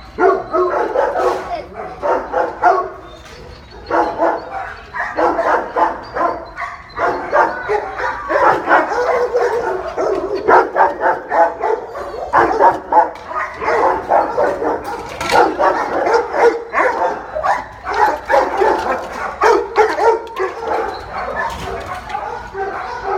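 Dogs barking and yipping again and again in short calls, almost without pause, with a brief lull a few seconds in.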